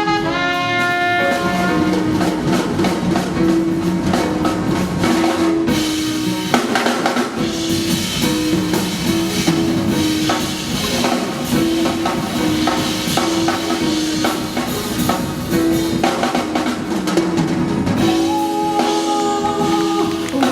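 Live jazz band playing, the drum kit to the fore with snare, rimshots and bass drum over a repeating bass line. Horn chords fade out at the start, and pitched instruments come back in near the end.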